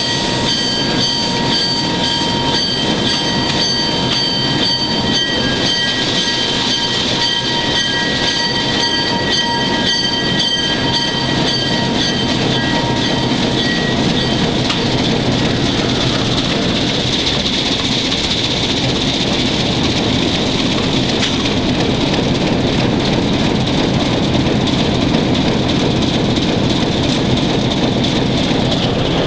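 Alco S1 diesel switcher locomotive running and moving slowly, its engine giving a steady loud rumble. A high steady whine rides over it for the first half and then fades out.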